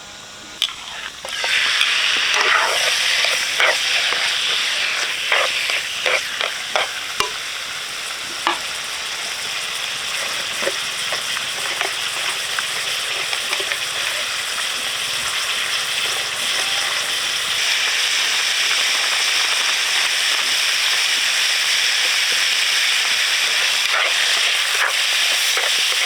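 Food hitting hot oil in a pan and sizzling, starting suddenly about a second and a half in. A cooking utensil clacks against the pan several times during the first several seconds of stirring, then the frying settles into a steady sizzle.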